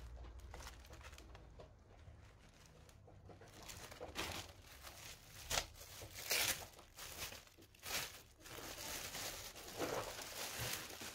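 Irregular crinkling and rustling of packaging being handled by hand, in a string of short bursts, loudest a little past the middle.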